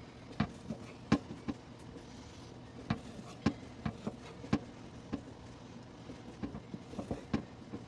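Knife chopping through boneless chicken thighs on a cutting board, one of them still partly frozen: a dozen or so sharp, irregular knocks over a steady low hum.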